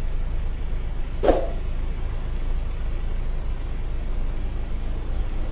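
Car driving slowly, a steady low road-and-engine rumble, with one short bump about a second in.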